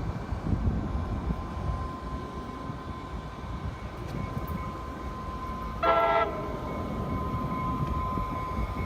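Train rumbling along with a steady whine, and one short horn toot about six seconds in.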